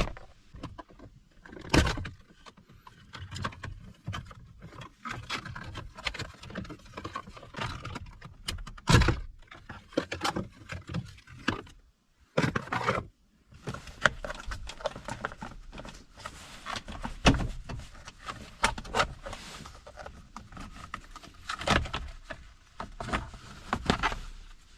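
Plastic steering-column trim panels being pried and worked off by hand: a string of irregular clicks, knocks and scrapes, with a brief gap about twelve seconds in.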